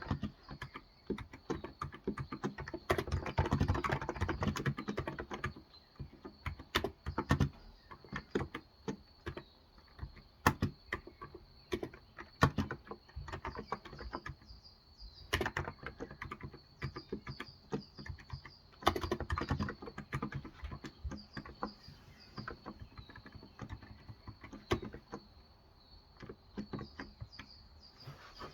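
Typing on a Cox Endeavor electro-capacitive (Topre-style) 35g tenkeyless keyboard: soft key presses in irregular bursts with short pauses between them. Birds chirp faintly and steadily in the background.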